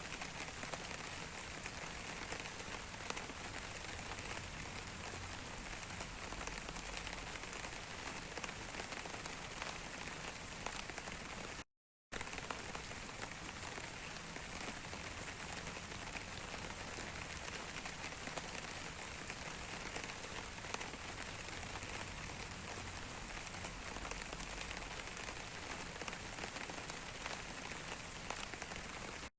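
Steady rain, individual raindrops pattering on a surface in a dense hiss of tiny ticks. The sound cuts out completely for a fraction of a second about twelve seconds in, then resumes unchanged.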